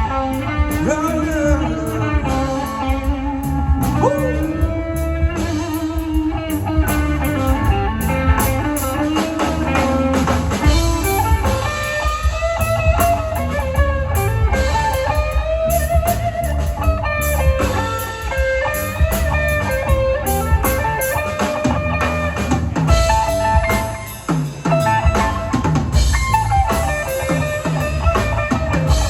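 Live reggae band playing an instrumental passage without vocals: a bending electric-guitar melody over drums and bass.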